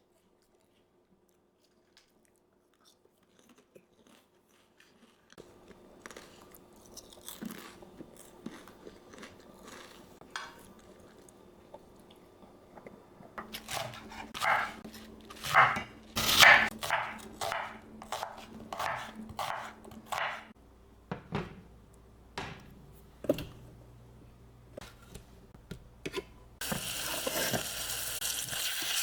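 Kitchen work: a run of sharp knocks and clatter, like a knife on a cutting board and utensils. Near the end a pan starts sizzling steadily as cooking of the kimchi stew begins.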